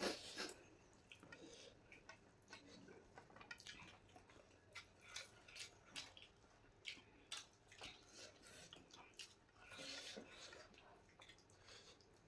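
Faint eating sounds: scattered small wet clicks and smacks of chewing.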